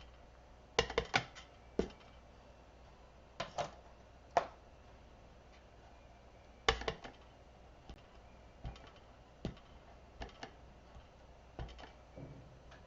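Irregular light taps and clicks of card-making supplies handled on a desk, as a stamp is inked with Crumb Cake ink and pressed onto paper. A small cluster of taps comes about a second in, and another around seven seconds.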